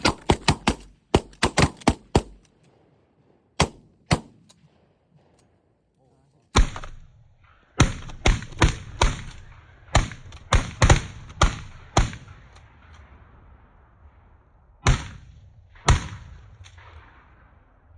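Several hunters' shotguns firing at geese: a rapid volley of shots in the first two seconds, two more shots, then a second run of shots from about six to twelve seconds in and two last shots near the end.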